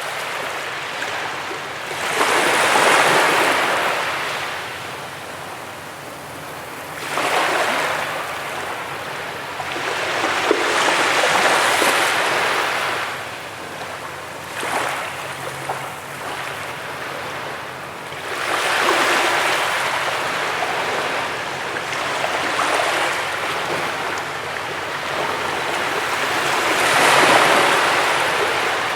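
Waves breaking on a beach: a hiss of surf that swells and falls back every few seconds, about seven times.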